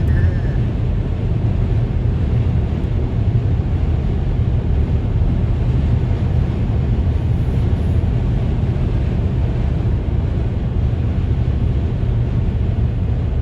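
Wind buffeting the microphone: a steady, loud low rumble with no clear pitch or rhythm.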